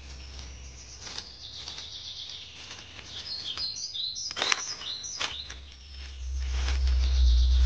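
Small birds chirping, a cluster of short high chirps in the middle, with a few sharp snaps about four and a half seconds in. A low rumble comes up near the end.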